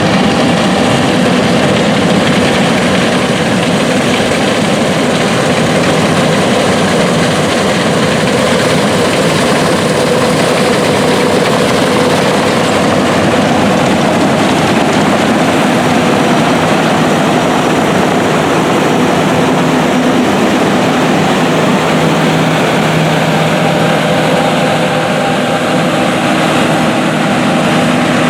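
Big John Deere diesel farm machinery running steadily under load, with a dense even drone and several steady engine tones.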